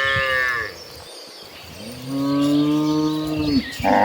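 Cattle mooing: one moo trailing off just after the start, a long, low moo about two seconds in, and another beginning right at the end.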